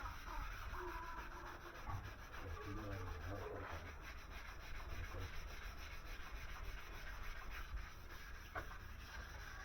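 Faint, steady rubbing and scraping of hand bodywork on the steel bed of a Toyota Kijang Super pick-up as body filler is worked over the panel.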